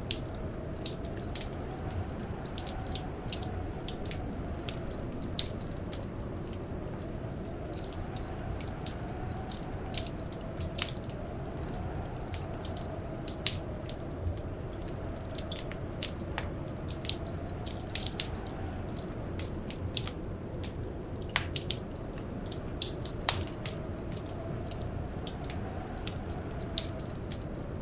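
Wood fire crackling in a fireplace: irregular sharp pops and snaps, several a second, over a steady low rumble, with a faint tone that slowly wavers up and down.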